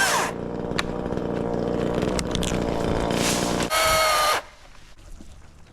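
Milwaukee top-handle battery chainsaw running, with a short higher whine before the motor cuts out suddenly about four and a half seconds in: the battery has run out of charge.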